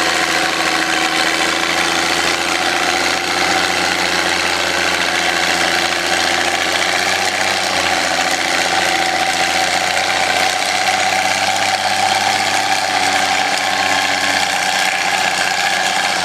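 Antique farm tractor engine running steadily with a mechanical rattle; its pitch wavers slightly through the middle.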